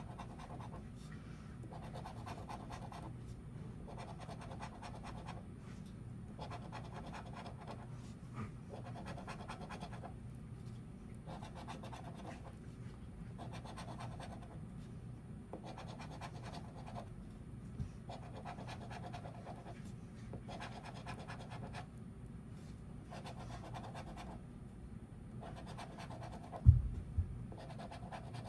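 A scratch-off lottery ticket being scratched in steady strokes, roughly one every second and a half, as the latex coating is rubbed off. Near the end there is a sharp thump with a smaller one just after it.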